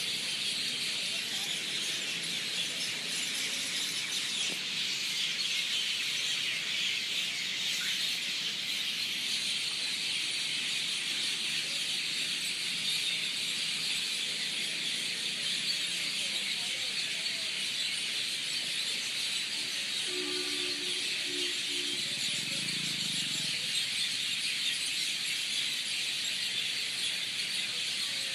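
Outdoor field ambience: a steady, dense high-pitched chorus, with a brief low animal-like call about twenty seconds in.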